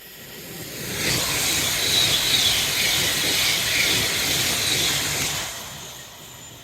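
A train passing at speed: a rushing rumble of wheels on rail that swells about a second in, holds for roughly four seconds with a wavering high ring in it, then dies away.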